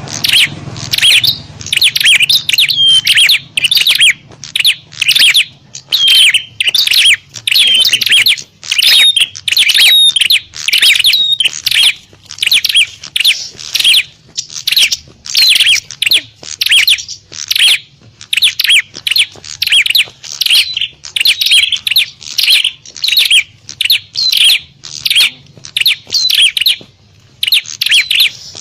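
Prenjak (prinia) birds calling in a rapid, unbroken stream of sharp, high chirps: the noisy fighting calls of rival birds.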